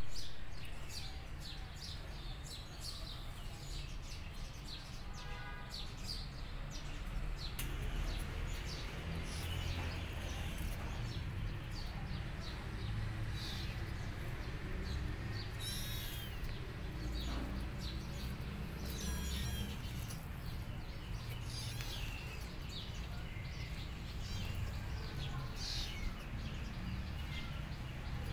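Small birds chirping on and off, with a steady low rumble underneath.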